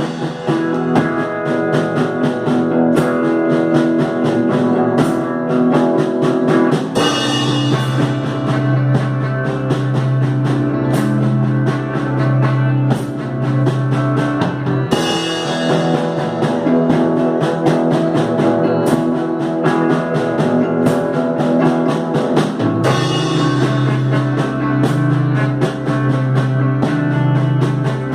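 Instrumental psychedelic rock played by a band: a drum kit keeps a steady beat under electric guitars and synthesizer, with no singing. A repeating section comes round about every eight seconds.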